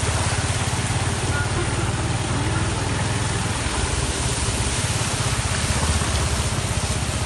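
A vehicle engine running steadily with a low pulsing hum, under a steady hiss of rain.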